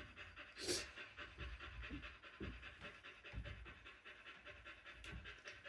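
A dog panting steadily and quickly, with soft irregular low bumps, and a brief sharp noise under a second in.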